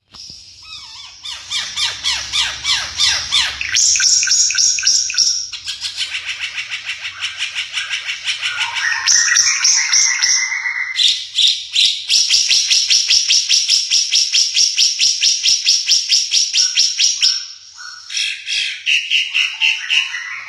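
Timor figbird calling in a long, rapid run of repeated chattering notes, about seven a second. The phrase changes every few seconds, and there is a brief pause near the end.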